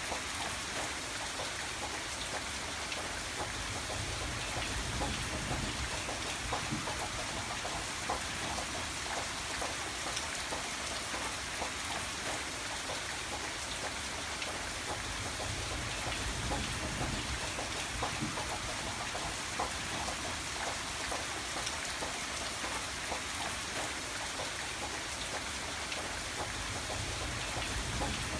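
Steady rain falling, a dense patter of drops over a low rumble that swells a couple of times.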